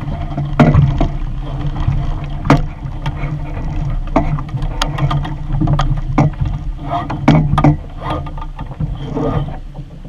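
Water slapping and splashing against a small sailing dinghy's hull, over a steady low rumble of wind on the camera microphone, with sharp knocks and splashes every second or so.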